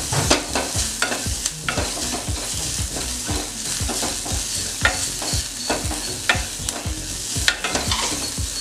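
A banana flower stir-fry sizzling in a metal kadai while a plastic spatula stirs it, scraping and tapping irregularly against the pan over a steady frying hiss.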